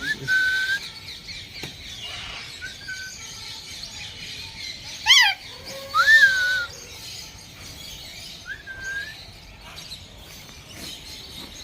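Caged parrots calling: a few short whistled calls, then two loud squawks about five and six seconds in, over the steady chirping of many small birds.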